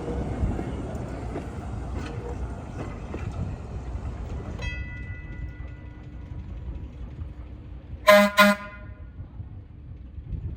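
Steady vehicle rumble that drops away about halfway through, then two short, loud horn toots in quick succession near the end.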